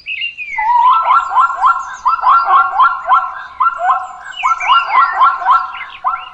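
Animal calls: a loud, rapid run of short rising notes, about three or four a second, with higher chirps over them. They break off shortly before the end.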